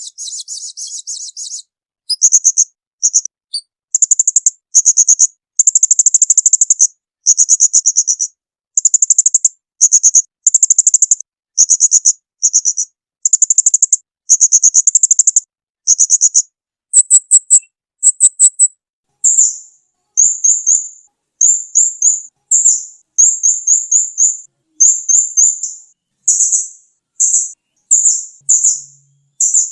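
Small songbird singing loud, high-pitched rapid trills in phrases of about half a second to a second with short gaps. Around halfway through they change to shorter, sharper chirped phrases. This is a masteran tutor recording of rough rapid-fire 'tembakan' trills.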